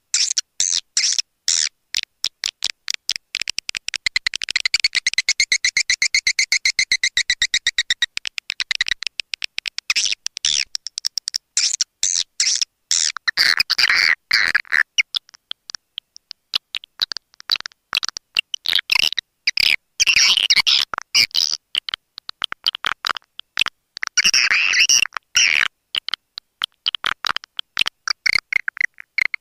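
Swiftlet call recording of the kind played to lure swiftlets to nest: fast, high-pitched chirping and clicking twitters in dense trains, with a more continuous twittering stretch a few seconds in.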